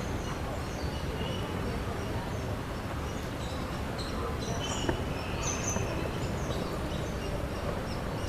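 Birds chirping and calling repeatedly in short high notes over a steady background hum of outdoor noise.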